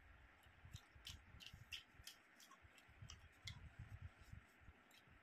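Faint chewing and lip-smacking: scattered soft, wet clicks from a mouth eating roast chicken and rice, with a few dull low thuds.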